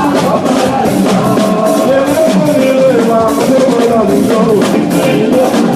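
Live church band music: a drum kit keeping a steady beat under a melody, with Yoruba praise singing.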